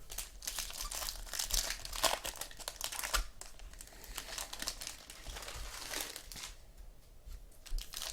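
Trading-card pack wrappers crinkling and rustling as cards are handled, in irregular crackly bursts that ease off for about a second late on.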